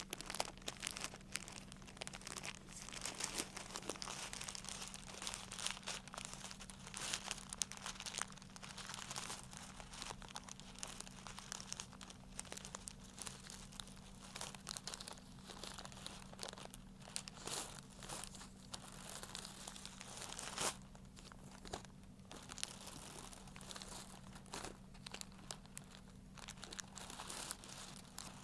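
Crinkling material handled close to the microphone as an ASMR trigger: a dense, continuous run of small crackles, with one sharper click about two-thirds of the way through.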